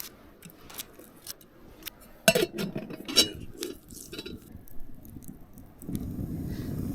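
Dishes or utensils clinking and knocking in a scatter of small clicks, with two louder knocks about two and three seconds in. A steady low rushing noise starts near the end.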